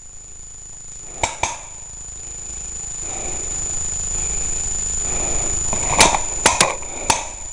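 Several sharp clicks or cracks, two about a second in and a quick cluster of about four near the end, over a low rumble of wind and handling noise on the microphone that grows steadily louder. A thin high whine runs underneath.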